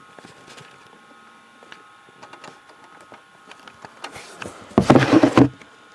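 Faint scattered clicks and handling noises over a low steady hum, then a loud burst of rattling noise about five seconds in that lasts about half a second.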